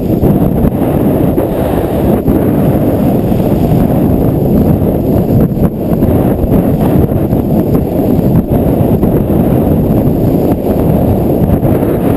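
Loud, steady wind rumble buffeting a GoPro microphone at downhill-skiing speed.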